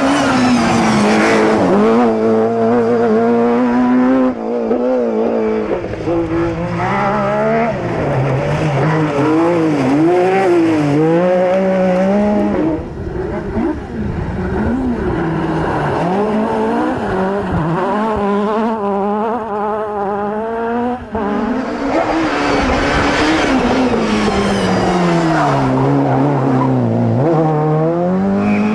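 Rally car engine being driven hard, the revs climbing and dropping again and again through gear changes and corners.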